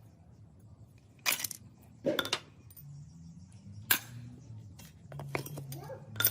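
Metal parts and tools being handled, making about five short clinks and knocks spaced a second or so apart, over a faint low hum.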